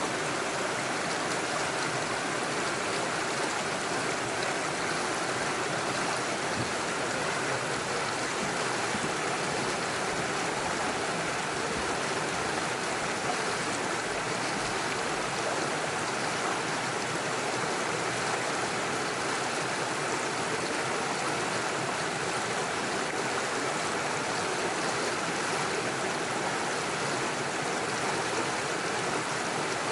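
Small rocky stream running steadily over stones and little waterfalls, an even rush of water.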